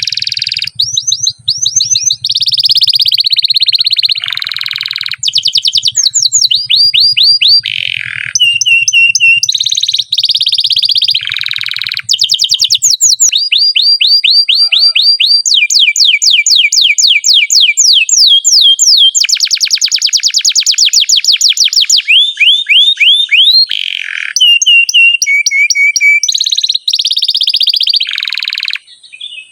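Domestic canary singing a long, unbroken rolling song: trills of rapidly repeated notes, changing to a new trill or lower, slower roll every second or two.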